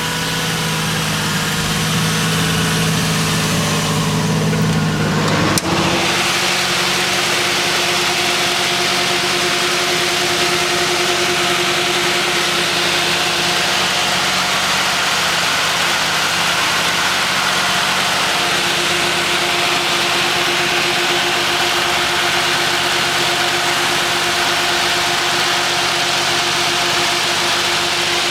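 Toyota 1JZ turbocharged straight-six engine running steadily with turbo-era hiss. About five seconds in, after a sharp click, the engine note steps higher and then holds steady for the rest of the time.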